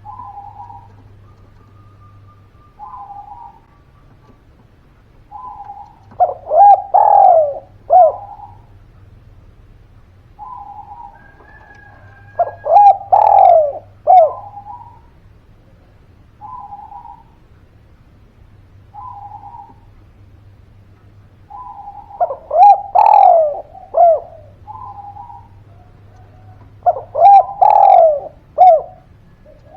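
Spotted doves cooing: four loud, rolling coo phrases a few seconds apart, with shorter, softer single coos in between.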